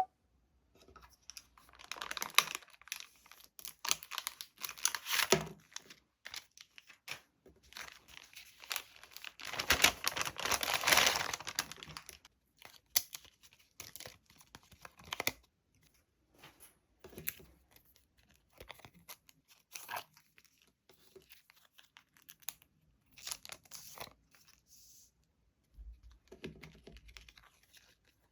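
Packaging being torn open and crinkled by hand, in several irregular bouts, the longest and loudest about ten seconds in, followed by scattered light rustles and taps.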